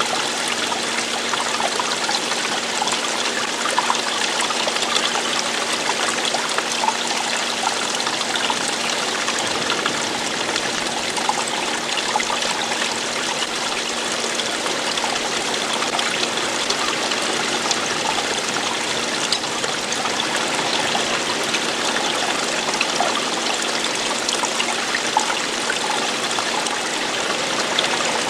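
Running water flowing and splashing steadily, an even continuous rush with many small splashes all through.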